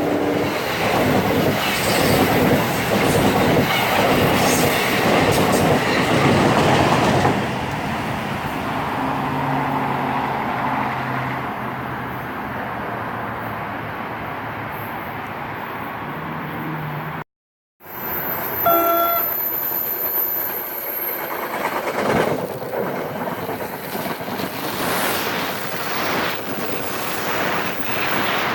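Train passing close by, with steady rumble and wheel-on-rail noise. The sound cuts out completely for under a second about two-thirds of the way through, then the train noise resumes.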